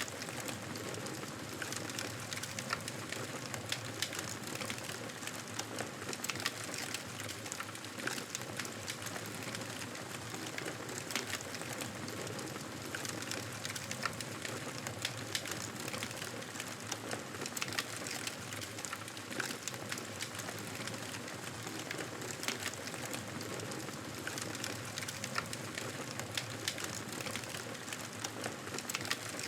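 Wood fire crackling in a fireplace: a steady hiss with frequent irregular pops and snaps.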